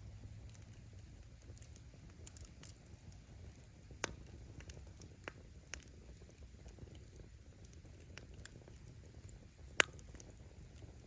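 Campfire of firewood burning with a low steady rumble of flame and scattered small crackles as the wood pops, one sharp loud pop near the end.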